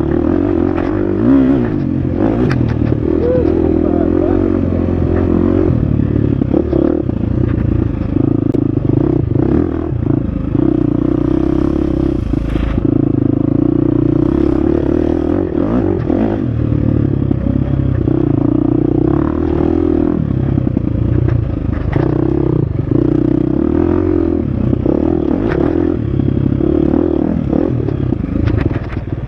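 Husqvarna FX 350 dirt bike's single-cylinder four-stroke engine running hard, its pitch rising and falling again and again as the throttle opens and closes, with scattered clatters and knocks throughout.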